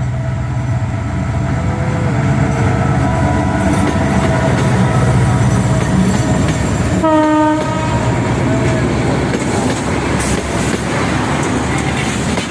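Karatoya Express intercity passenger train running past with a steady rumble and wheel clatter, its horn giving one short blast about seven seconds in.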